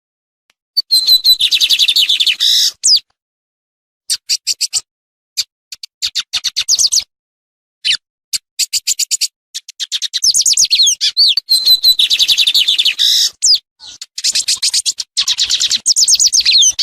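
Lined seedeater (bigodinho) singing: high phrases of rapid notes and trills, separated by short pauses, starting about a second in.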